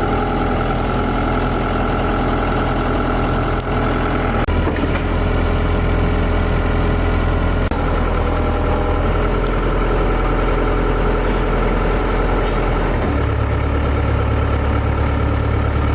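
Large engine idling steadily, its low note shifting about four and a half seconds in and again about thirteen seconds in.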